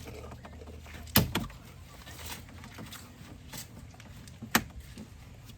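Sharp plastic clicks and knocks, a loud double one about a second in and another near the end, as the Corolla's dashboard trim panel is pried and tugged loose from its retaining clips.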